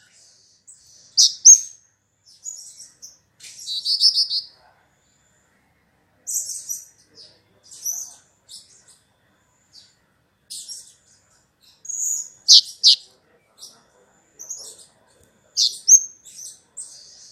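Kemade calling: bursts of sharp, high-pitched chirps and short trills with gaps between them, several notes sweeping quickly downward, the loudest about a second in, about twelve and a half seconds in, and near sixteen seconds.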